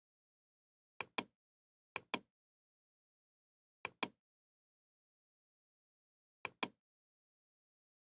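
Four pairs of sharp clicks at uneven intervals. The two clicks of each pair are about a fifth of a second apart, with dead silence between the pairs.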